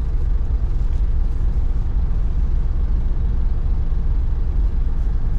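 Steady low rumble of a moving vehicle, heard from inside it: road and engine noise with no distinct events.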